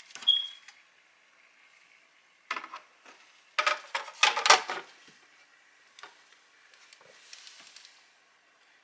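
Handling noises: a few short clatters and rustles, the loudest cluster about four seconds in, with a softer rustle near the end.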